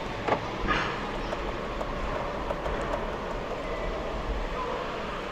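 Electric BMW test-drive car moving, a steady low rumble and hiss, with two short knocks in the first second.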